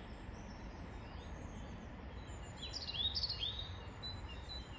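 Faint outdoor ambience: a few short songbird chirps, clustered about halfway through, over a steady low rumble.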